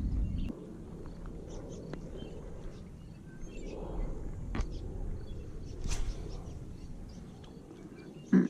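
Outdoor ambience at a pond: a steady low background noise with faint, scattered bird chirps and a couple of sharp clicks. A brief voice-like sound comes at the very end.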